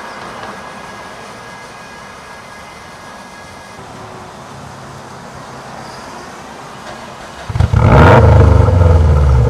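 Subaru WRX STI with a new aftermarket exhaust: steady engine and road noise, then about seven and a half seconds in, a sudden, much louder burst of exhaust lasting about two seconds that cuts off abruptly.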